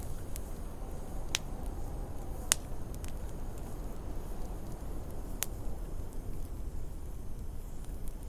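Wood fire crackling with three sharp pops, over a steady low rush of wind with a faint wavering whistle.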